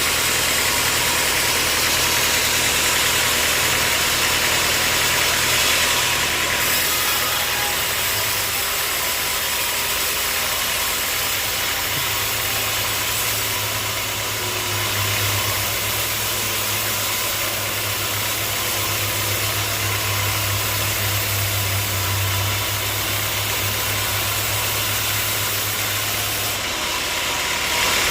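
Sawmill machinery running steadily: a low engine hum under a loud, even high hiss. The hum grows stronger about twelve seconds in and drops back near the end.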